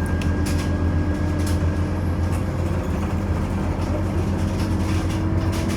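Scania OmniCity city bus heard from inside, its engine running with a steady low drone, with light clicks and rattles from the body and fittings.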